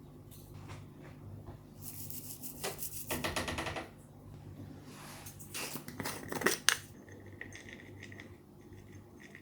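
Kitchen utensils scraping and clinking against dishes during food preparation: a rapid scraping stretch about two seconds in, then a few clinks with one sharp one a little over six seconds in. A low steady hum runs underneath.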